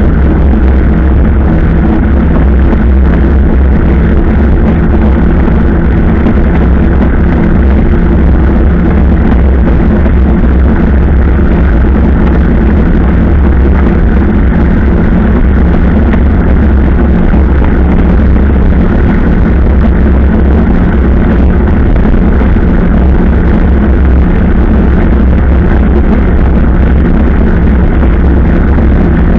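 Motorcycle engine running at a steady cruise, its pitch unchanging, under heavy low wind rumble on the microphone.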